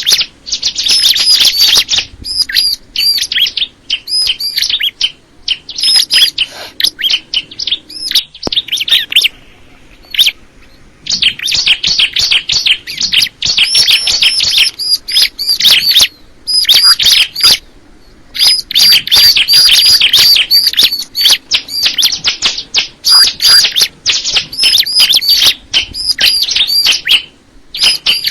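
Ciblek (bar-winged prinia) singing loud, rapid runs of sharp, high chirps, with short pauses between phrases.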